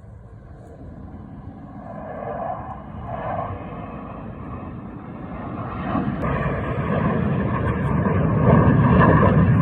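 Airplane flying by, its engine noise building steadily and loudest near the end as it draws close.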